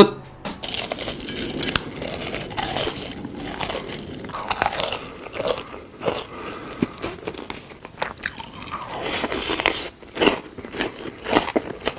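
Close-miked eating: a person biting into and chewing food, with irregular crunchy bites and chewing noises. A single sharp click at the very start is the loudest sound.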